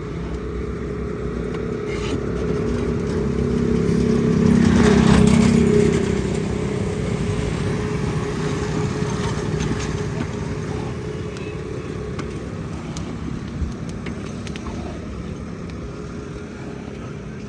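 Road traffic: a motor vehicle with a steady engine hum draws close, is loudest about five seconds in, then slowly fades as it moves away.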